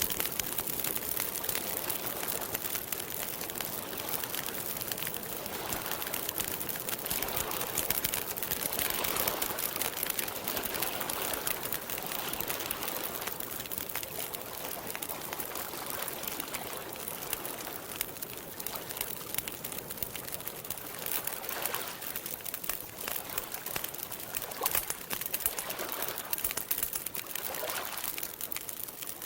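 Campfire crackling steadily: dense, rapid small pops and snaps of burning wood.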